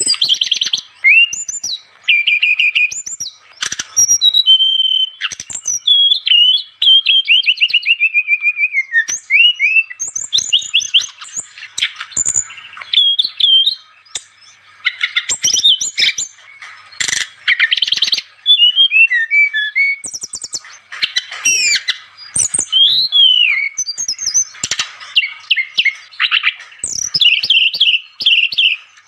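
A sikatan rimba dada coklat (SRDC) songbird singing vigorously and without pause: a run of varied loud whistled notes, rapid trills and sharp chirps, some sliding up or down in pitch.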